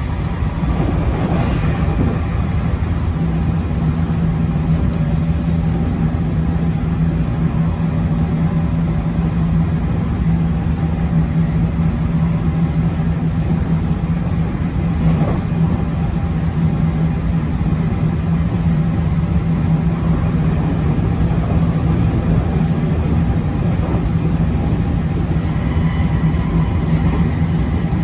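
JR West 207 series electric commuter train with Mitsubishi IGBT inverter drive, heard from inside the passenger car running at a steady speed: an even rumble of wheels on rail with a steady low hum from the drive.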